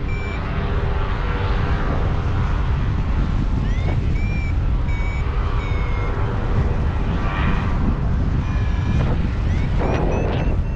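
Strong wind buffeting the microphone of a paraglider in flight, a steady low rumble. Over it a variometer gives short, repeated beeps, some rising in pitch, in clusters: its climb signal as the glider rises in ridge lift.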